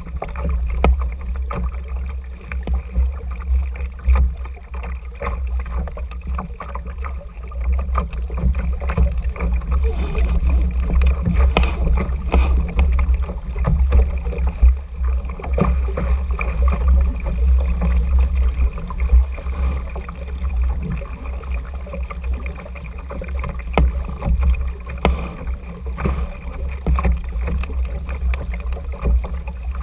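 RS Tera sailing dinghy underway: water rushing and slapping against the small hull, with a steady low wind rumble on the camera microphone and frequent short knocks from the boat.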